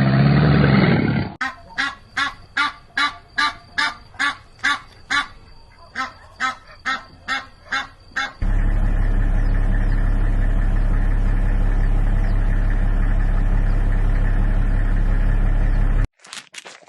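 A bird gives a run of short, pitched calls, about two a second, for some seven seconds. Then a loud, steady low hum runs for about eight seconds and cuts off suddenly.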